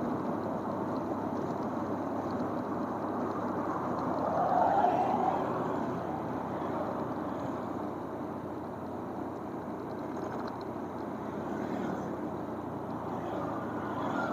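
Motorcycle on the move: steady engine and wind noise, with a brief louder swell about four to five seconds in.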